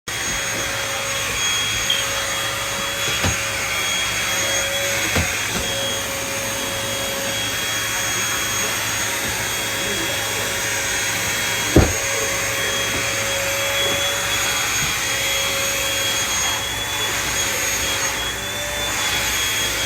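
Vacuum cleaner running steadily, a motor whine over a rushing hiss, with a few sharp knocks, the loudest about twelve seconds in.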